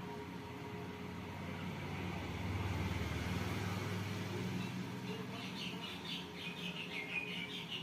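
A low rumble swells and fades in the first half. From about five seconds in, small birds chirp in quick, high, repeated notes.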